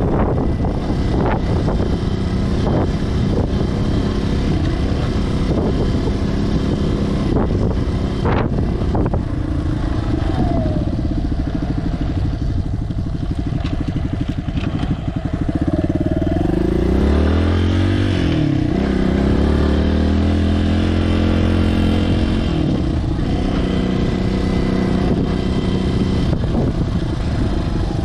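Single-cylinder engine of a 2020 Suzuki DR200S running steadily as the bike is ridden. About two-thirds of the way through the engine note drops, then climbs again as it speeds up, with a few knocks along the way.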